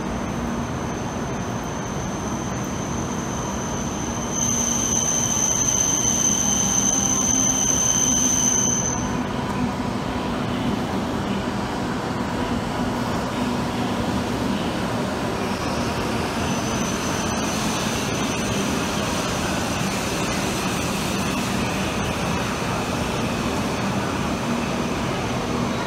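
W7 series Shinkansen train rolling slowly along a station platform, a steady rumble with a loud high whine for about four seconds starting some four seconds in, then a fainter high whine from about sixteen seconds on.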